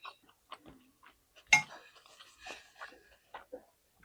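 Dishes and utensils clinking while eating from a plate: light taps and clicks, with one louder clink and brief ringing about one and a half seconds in.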